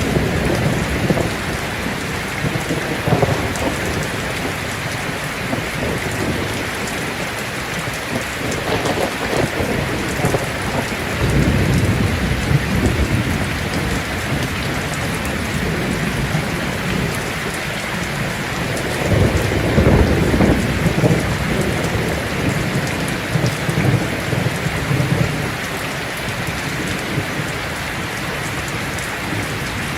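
Heavy rain drumming steadily on a tin roof, with thunder rumbling low twice, about a third of the way in and again past the middle.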